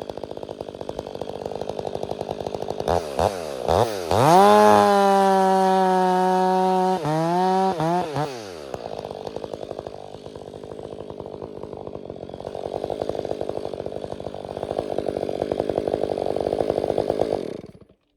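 Two-stroke gas chainsaw idling, blipped twice, then held at full throttle for about three seconds before dropping back to idle. It idles on until it cuts off suddenly near the end.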